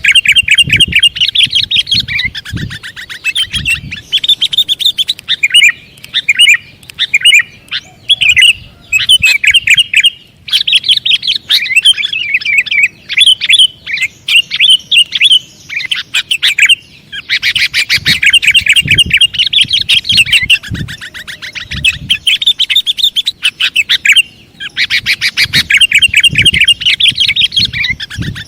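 Sooty-headed bulbul (kutilang) calling in long runs of rapid, chattering chirps, with brief pauses between runs.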